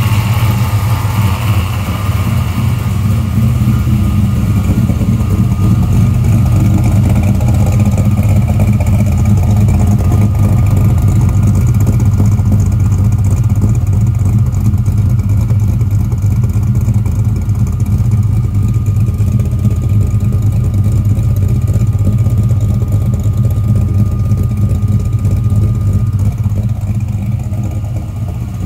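Car V8 engine idling steadily through its exhaust. The engine has only just been got running.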